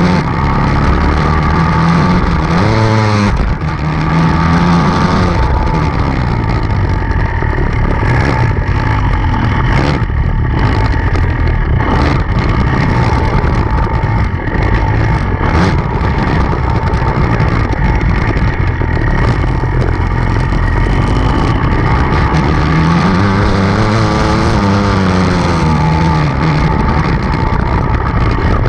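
Enduro dirt bike engine running continuously under load, its pitch rising and falling as the throttle opens and closes. There are a few short knocks in the middle.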